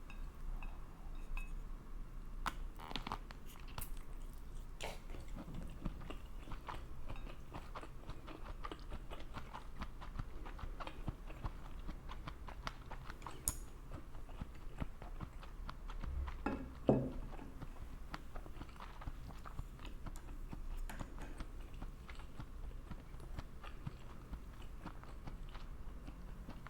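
A person chewing and biting food close to the microphone, a steady run of small irregular wet clicks and crunches, with one louder bite about seventeen seconds in. The food is stir-fried rice noodles (yaki bifun) and wiener sausages.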